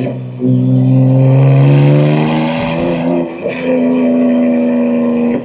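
BMW M2 G87's S58 twin-turbo inline-six, fitted with catless downpipes and an equal-length mid pipe, pulling under acceleration with its pitch rising for about two seconds. The note briefly drops about three seconds in, as at a manual gear change, then holds a steady pitch.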